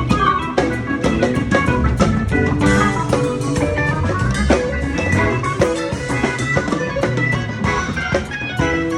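Live rock band playing an instrumental passage: drum kit keeping a steady beat under electric guitar and organ.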